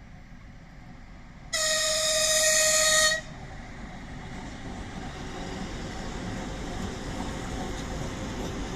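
A 2TE116U diesel locomotive sounds one steady horn blast, a single high note lasting about a second and a half. Its low running rumble then grows steadily louder as it approaches.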